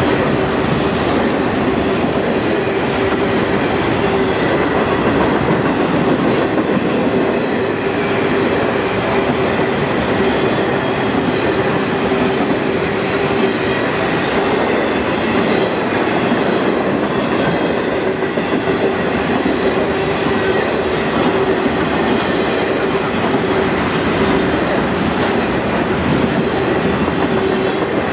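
Norfolk Southern intermodal freight train's trailer-laden cars rolling past at speed: a loud, steady rumble and clatter of wheels on the rails, with a steady ringing tone over it.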